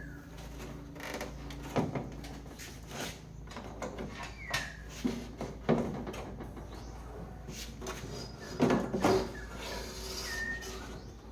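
A handful of separate knocks and clicks, like things being handled and set down, with two close together late on. A low steady hum runs underneath, and there are a few short falling chirps.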